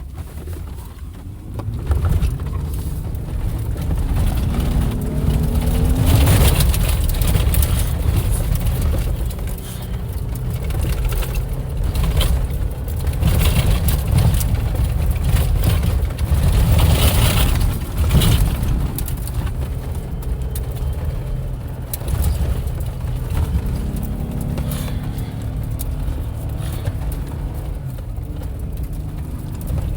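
Off-road vehicle driving over rough ground, its engine rumbling low and steady and rising in pitch a few seconds in as it speeds up. Several short bursts of noise break in during the drive.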